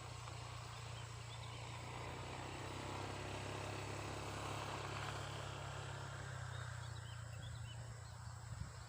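Faint open-air ambience: a steady low rumble with a distant engine-like drone that swells in the middle and fades, and a few faint small bird chirps near the end.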